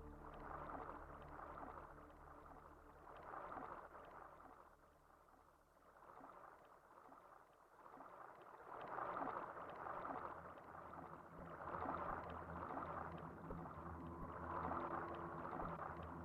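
Quiet passage of an ambient electronic synthesizer piece: swells of crackly, water-like noise, like rain or lapping water, rising and falling every second or two. It thins out and nearly fades partway through, then grows again over a faint low drone.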